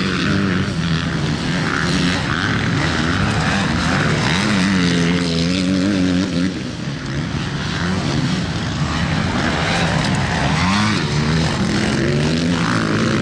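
Motocross bike engines running hard, their pitch rising and falling again and again as the bikes rev, shift and ease off.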